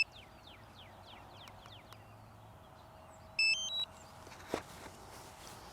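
A short electronic beep melody of several quick stepped tones from the DJI Avata drone gear, about three and a half seconds in. Before it, faint repeated falling whistles over a steady faint tone, and a single click near the end.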